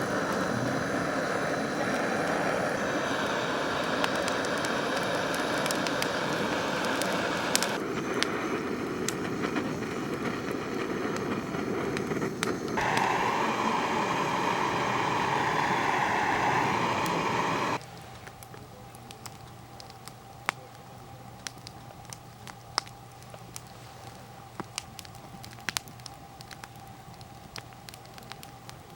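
A steady rushing noise that changes abruptly a few times, then, about two-thirds of the way in, drops to a quieter background with sharp scattered pops and crackles like a wood fire burning.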